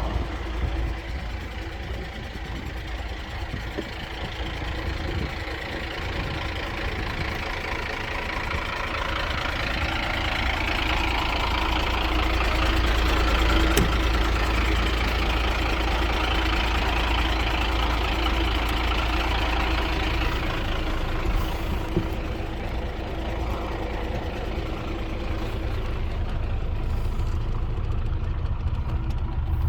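Renault G230 box truck's diesel engine running steadily, growing louder over several seconds partway through and then easing off slightly.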